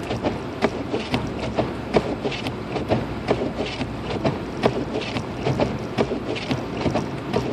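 Cabin noise of a 2006 Lexus IS250 AWD driving on a snow-covered road: a steady low rumble of tyres and engine, with frequent irregular clicks and ticks.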